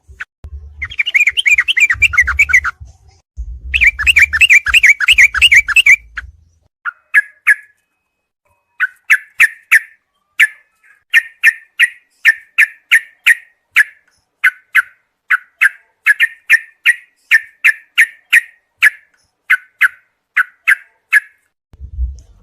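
Recorded yellow-vented bulbul (trucukan) song: rapid bubbling trilled phrases with a low rumble under them for the first six seconds, then a long series of short sharp chirps, about two a second, in little groups.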